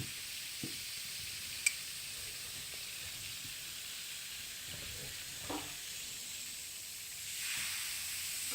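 Steady fizzing hiss of a homemade model volcano's foaming eruption, with a sharp click about two seconds in and the fizz swelling near the end.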